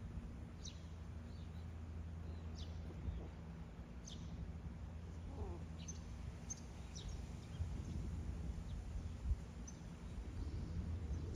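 Quiet outdoor ambience: a steady low rumble, with short, high bird chirps scattered every second or so.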